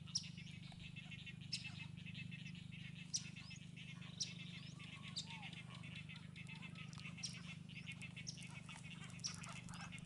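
Small birds calling: a short, sharp, high call repeated roughly once a second, over a dense high chattering in the background and a low steady hum.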